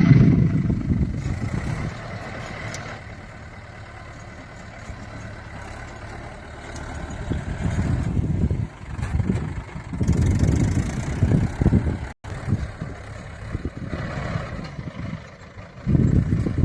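Mahindra tractor's diesel engine running, loud at first, easing to a lower steady note for several seconds, then growing louder again in repeated surges. The sound drops out for an instant about twelve seconds in.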